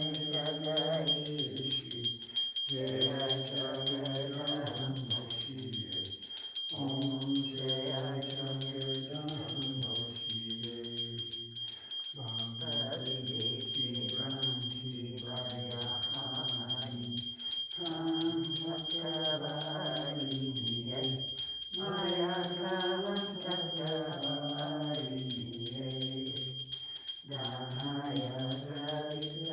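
Voices chanting a devotional mantra in sung phrases of about four to five seconds, with brief breaks between them, over a small hand bell rung without pause.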